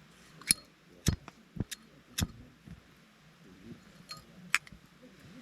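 A handful of sharp clinks and knocks of small hard objects being handled, irregularly spaced, most of them in the first half.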